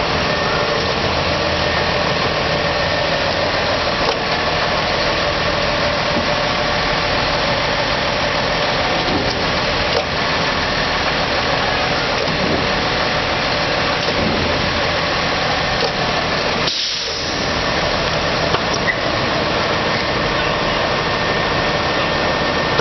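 Recycling collection truck's diesel engine running steadily while its hydraulics work the lift, with a short hiss and a brief dip in the sound about seventeen seconds in. The lift is going slower than it should, which is put down to the cold.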